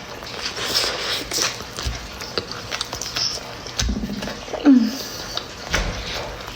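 Close-miked mukbang eating sounds: wet chewing and lip smacking on a chili cheese dog, a run of short clicky mouth noises with a few soft low thumps.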